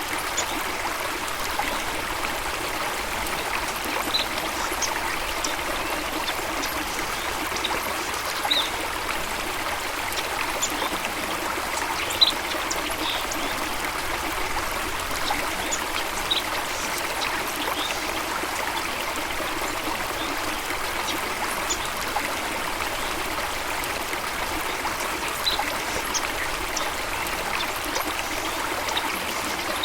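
Running water trickling and splashing steadily, as in a small stream, with scattered brief high clicks or chirps over it.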